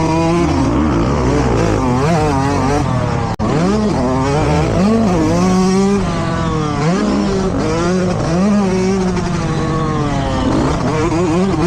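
Several motocross bikes racing, their engines revving up and dropping back over and over, the pitches of different bikes overlapping.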